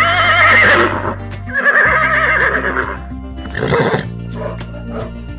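Horse whinnying twice, two long wavering neighs one after the other, followed by a short breathy burst near the end, over background music.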